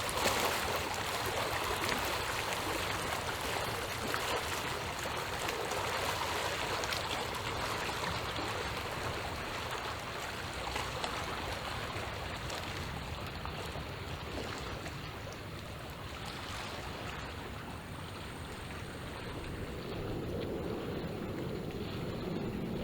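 Small waves lapping at the shore, a steady wash of water. Near the end a lower rumble builds.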